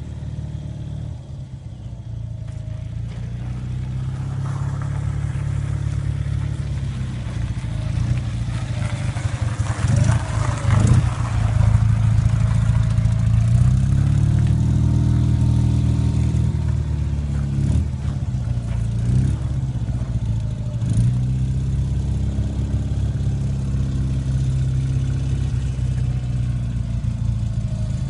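BMW motorcycle engine running, revved up about ten seconds in and again for a few seconds after that, then given a few short throttle blips before settling back to a steady run.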